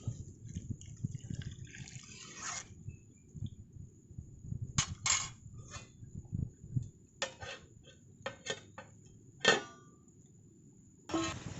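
Cooking-pot and dish handling with liquid: scattered short clinks and knocks over a low, steady rumble.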